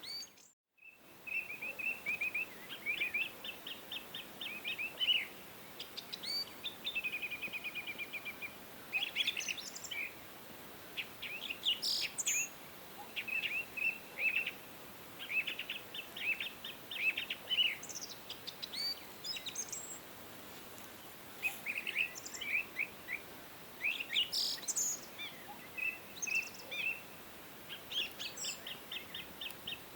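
Songbirds singing: a busy mix of short chirps, fast trills and rapid runs of repeated notes, some sweeping higher, over a steady faint hiss. The sound cuts out to silence for about a second just after the start, then resumes.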